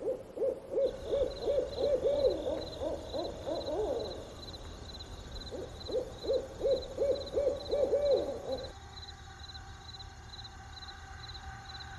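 A bird hooting in fast series of short, hollow hoots, about three a second, in two bouts, the second cutting off suddenly about nine seconds in. Under it, a high insect chirp pulses evenly throughout.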